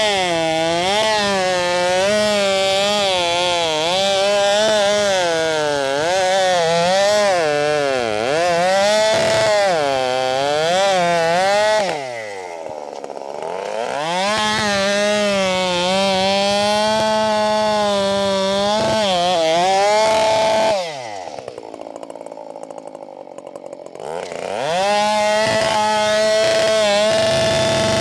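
Husqvarna 572XP two-stroke chainsaw with a 24-inch bar bucking a large pecan trunk, running at full throttle with its pitch wavering under load. It drops back to a low idle twice, a little before halfway and about three-quarters through, then revs up again. The chain was overdue for changing, by the operator's own account.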